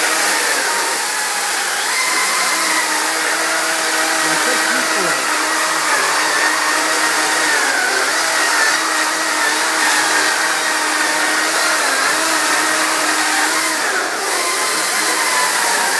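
Battery-powered chainsaw running with a steady electric motor and chain whine that sags in pitch now and then and recovers, as the chain is loaded in the cut.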